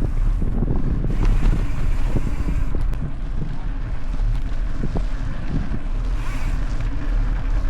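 Wind buffeting the microphone of a camera riding along on a mountain bike on a dirt trail, a steady low rumble with scattered clicks and rattles of the bike going over bumps.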